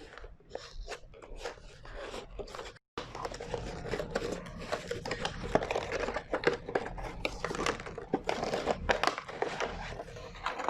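A product box being opened and its packaging handled: paper and plastic crinkling and rustling in many short, irregular crackles. There is a brief cut to silence just under three seconds in.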